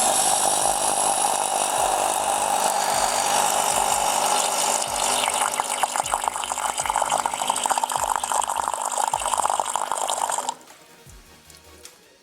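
Krups KP 1002 capsule coffee machine's pump running as water is forced through it, a loud steady hiss and hum that turns rough and spluttering about halfway and then stops abruptly after about ten seconds. The machine is leaking from more than the capsule needle.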